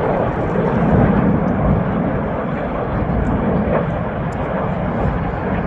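Snowbirds' CT-114 Tutor jets flying overhead: a steady jet noise.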